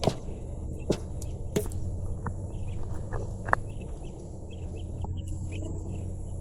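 Outdoor ambience: a steady low rumble with scattered short clicks and brief chirps over a faint, even high hiss.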